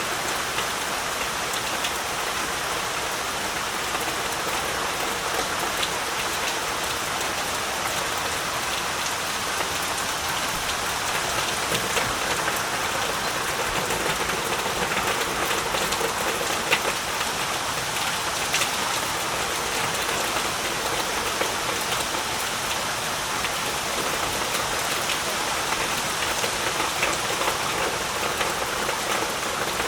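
Heavy rain falling steadily, a dense even hiss with scattered sharp drop hits.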